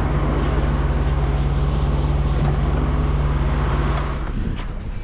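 An engine running steadily at constant speed, its sound dropping away suddenly about four seconds in, followed by a short click.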